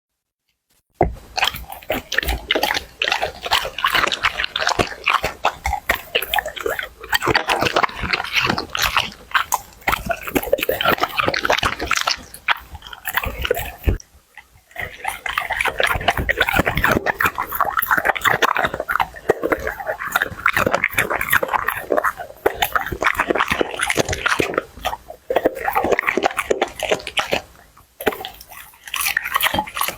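A Labrador retriever chewing and crunching food noisily in close-up, a dense run of wet crunches and bites that starts about a second in and pauses briefly about halfway through.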